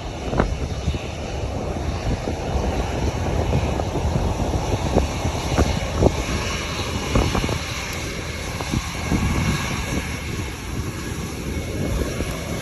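Airbus A321 jet engines rumbling steadily, with a faint high whine above the rumble. A few brief thumps break in.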